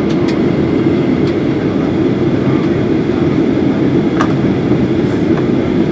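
Steady low rumble of the air and ventilation system inside a parked Boeing 737-800's cabin, with a few sharp clicks and knocks, the loudest about four seconds in.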